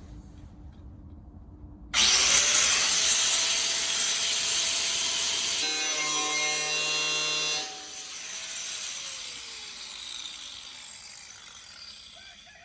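A power saw starts abruptly and cuts loudly for several seconds. After it is switched off, the blade winds down with a steadily falling pitch.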